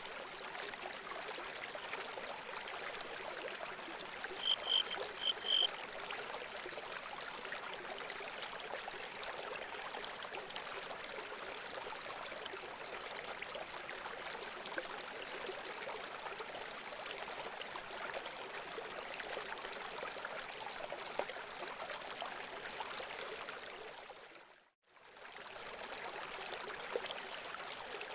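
Running water trickling and flowing steadily. About four seconds in, a bird gives four short high chirps. Near the end the water sound briefly fades almost to nothing and then returns.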